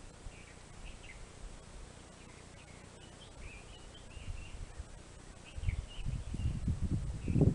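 Small birds chirping, with short, high calls scattered throughout. Over the last two seconds, low, irregular rumbling thumps come in, grow louder and become the loudest sound.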